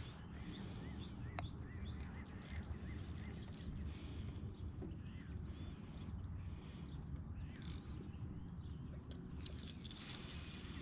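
Quiet open-air ambience: faint small chirps, likely birds, repeating over a steady low rumble and a high steady hiss, with one sharp click about a second and a half in and a brief rustle near the end.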